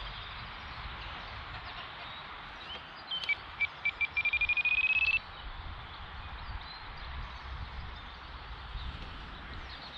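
Radio-control transmitter trim beeps: a few separate beeps, then a fast run of about ten a second that creeps up in pitch and stops suddenly, as the elevator trim is pushed toward down elevator to correct a glider that flies tail-heavy. Steady wind noise on the microphone underneath.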